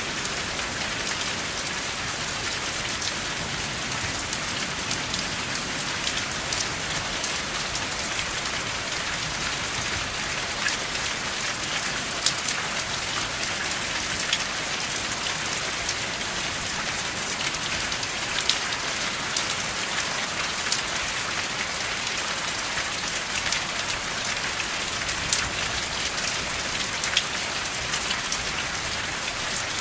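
Steady rain falling, an even hiss with scattered sharper drop impacts. There is no thunder.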